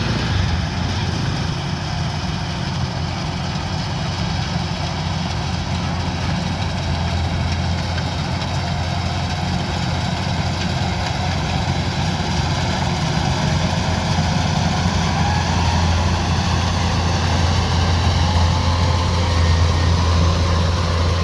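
Kubota DC-105X combine harvester's diesel engine running steadily under load, a deep constant hum that grows a little louder near the end.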